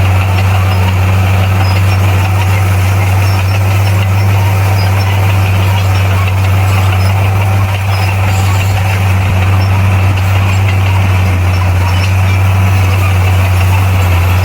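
Bulldozer's diesel engine running at a steady speed: a loud, deep, even drone that stays unchanged throughout.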